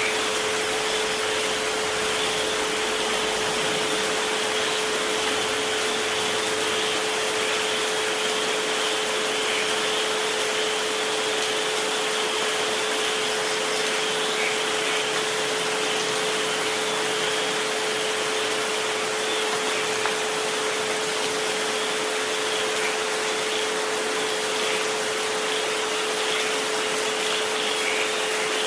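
A steady pure tone at 432 Hz, with a fainter tone near 528 Hz, held unchanging over an even hiss of rain.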